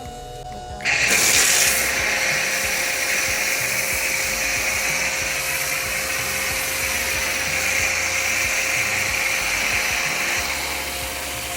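Pressure washer spraying through a foam cannon, the trigger pulled about a second in: a sudden, steady hiss of the spray over a steady whine from the machine, easing a little near the end.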